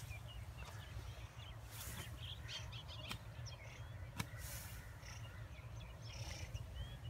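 Small birds chirping: many short, quick chirps and rising whistles over a steady low rumble, with a single sharp click about four seconds in.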